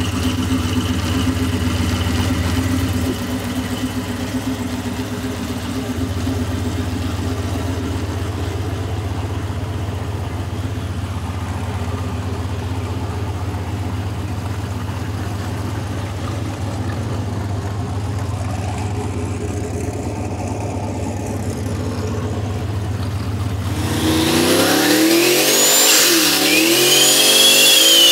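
Turbocharged Cadillac CTS-V V8 running steadily at low revs. About 24 seconds in it revs hard, up and down several times, as the rear tyres spin in a burnout, with a high jet-like whine rising and falling with the revs.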